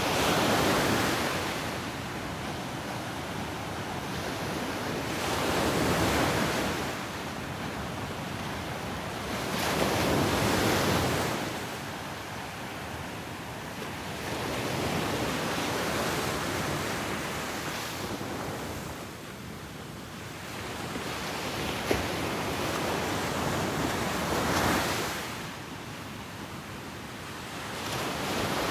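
Ocean waves breaking on a beach, a surge of surf every four to six seconds over a steady wash, with some wind on the microphone. A brief click about three quarters of the way in.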